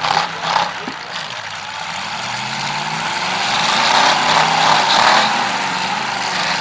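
Demolition derby car engines running and revving unevenly, rising and falling in pitch and swelling louder after about four seconds, with a few sharp knocks in the first second.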